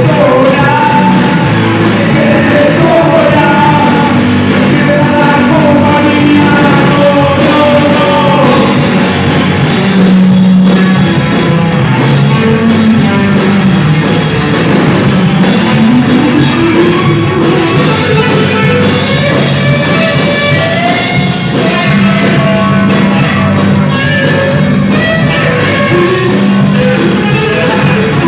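Rock band playing a song with a sung lead vocal.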